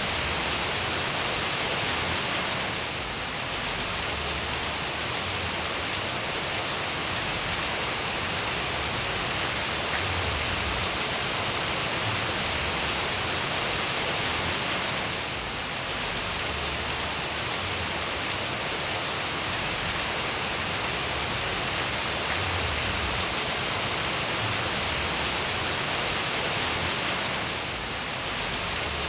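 Steady, dense rainfall: an even hiss with fine pattering of drops. It dips slightly in level for a moment about every twelve seconds.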